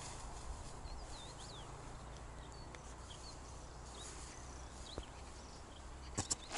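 Faint outdoor ambience in a meadow: a few short, high birdsong chirps over a low steady rumble, with a couple of sharp knocks near the end.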